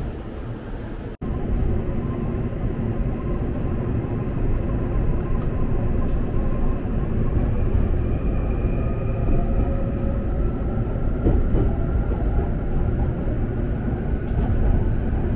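Inside an electric train carriage while the train gets under way: a steady rumble of wheels and running gear, with a motor whine that rises slowly in pitch as the train gathers speed.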